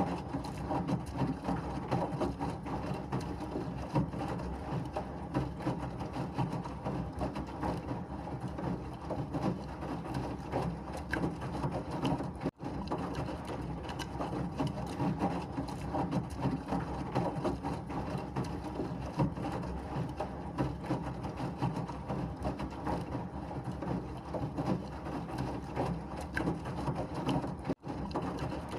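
Washing machine running through a wash: a steady, uneven churning noise, broken by two momentary dropouts, one near the middle and one near the end.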